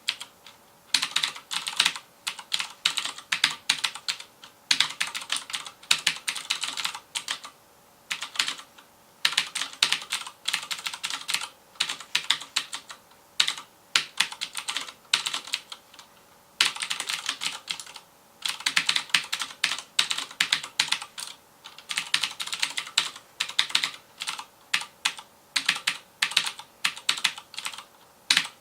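Typing on a FILCO Majestouch Convertible 2 mechanical keyboard with Cherry MX Blue switches: fast runs of sharp, crisp key clicks, broken by brief pauses of about half a second to a second between bursts.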